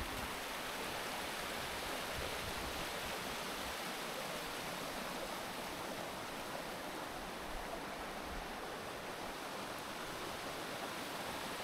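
Running water of a small waterfall: a steady, even rush.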